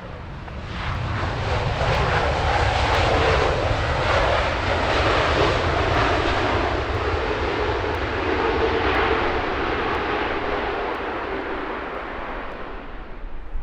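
Jet airliner's engines running as it passes close by, the noise swelling about a second in and fading away toward the end.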